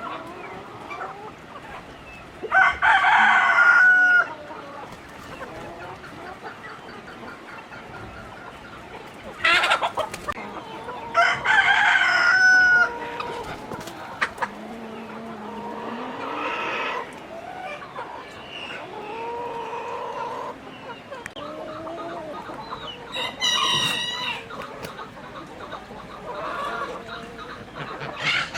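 Chickens clucking, with a rooster crowing twice: once about two and a half seconds in and again about eleven seconds in. Other shorter calls come and go between them.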